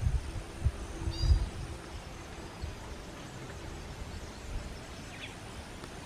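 Short, high bird calls: a quick run of a few notes about a second in and one brief note near the end. Low thumps and rumble on the microphone in the first second and a half.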